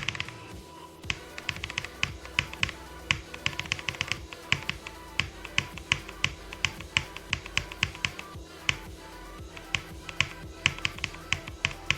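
A run of sharp clicks or taps at an uneven pace, a few per second, over a steady low hum.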